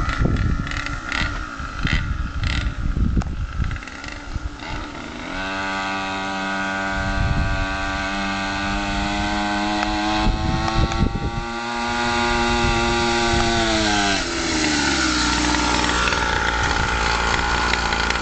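Dirt bike engine running. It is uneven and choppy for the first five seconds, then held at steady high revs, creeping slightly higher, before the revs drop off about fourteen seconds in as the throttle closes.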